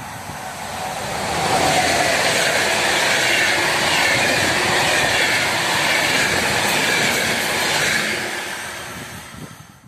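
Passenger train of coaches passing by close: the rail noise builds over the first second or two, stays loud as the coaches go past, and dies away near the end.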